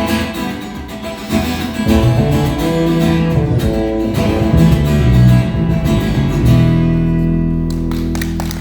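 Acoustic guitar music with strummed chords, the final chord ringing out and fading near the end.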